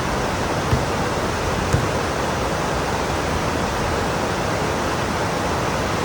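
Heavy pouring rain, a steady dense hiss. Two brief low thuds about a second apart come early on.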